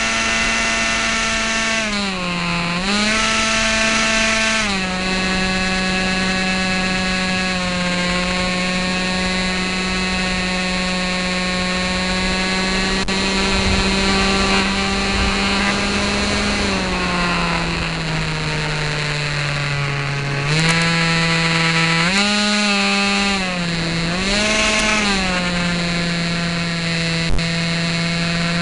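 Dynam Hawk Sky RC plane's electric motor and propeller whining steadily from on board. The pitch dips and recovers a few times early on, sinks slowly for several seconds past the middle, and then jumps down and up a few times as the throttle changes.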